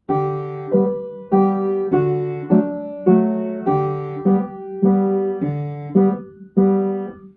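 Piano, likely a digital one, playing a simple four-bar melody in G with both hands over left-hand G, D and G chords. About a dozen struck notes and chords come at an even, unhurried pace, each ringing out until the next. The last chord is damped near the end.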